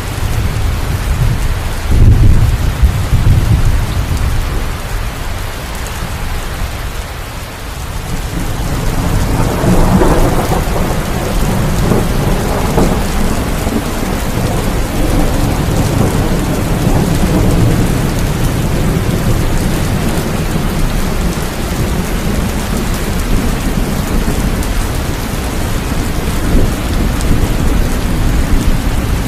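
Steady rain falling, with rolling thunder: a deep rumble about two seconds in and a longer peal swelling about ten seconds in.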